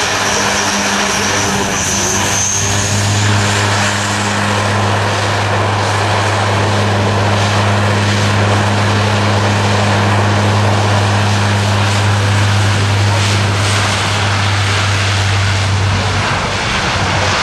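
Lockheed Martin C-130J Super Hercules's four Rolls-Royce AE 2100 turboprops running, a steady low propeller drone under a high turbine whine; the drone grows stronger about three seconds in.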